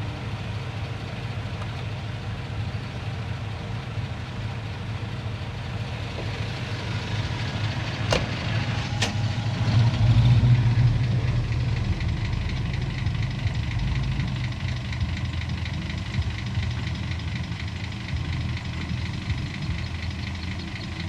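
Heavy diesel earthmoving engine running steadily, working harder and louder for a couple of seconds about halfway through. Two sharp metallic clanks come just before that.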